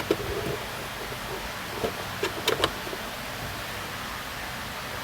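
A few short plastic clicks and knocks from the glove box stop knobs being pushed back into their holes in the dashboard, over a steady hiss. One click comes right at the start, and a quick cluster of four comes around two seconds in.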